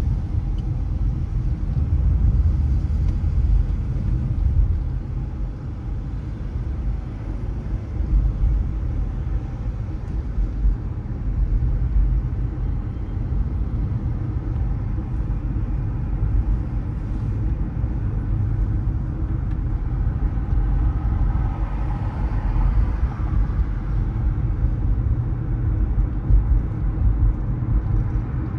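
Steady low road rumble of a car driving through the city, the noise of the engine and tyres on the road. A fainter humming tone joins for a few seconds about twenty seconds in.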